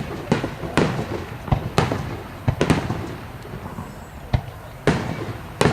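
Aerial fireworks shells bursting in quick, irregular succession, about nine sharp bangs, each trailing off in echo and crackle.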